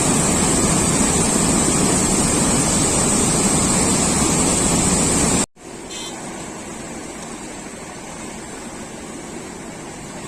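Heavy rushing water from a dam's outflow, a loud steady rush that cuts off about five and a half seconds in and gives way to a quieter, more distant-sounding rush of water.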